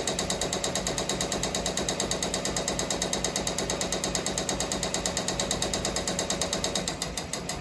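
Ricoma MT-1501 multi-needle embroidery machine stitching at speed: a loud, fast, even clatter of about ten strokes a second over a steady hum. The extra noise is a smacking from somewhere in the machine that is not stopping it or spoiling the stitching. The clatter eases slightly about seven seconds in.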